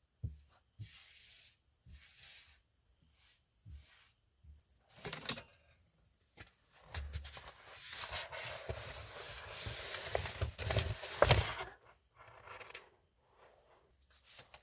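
Rustling and rubbing of things being handled, in short bursts and then a longer stretch, with a sharp knock about eleven seconds in.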